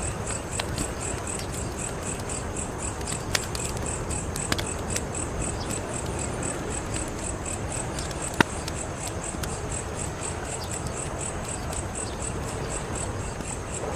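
Wood fire burning with a steady hiss and a few sharp crackling pops, the loudest about eight seconds in. A cricket chirps evenly throughout, about three to four chirps a second.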